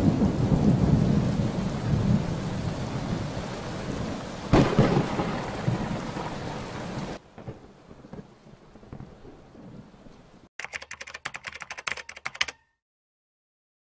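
Thunderstorm: rain with rumbling thunder and a sharp thunderclap about four and a half seconds in, fading away by about seven seconds. Near the end, about two seconds of rapid key-like clicking, then it cuts off to silence.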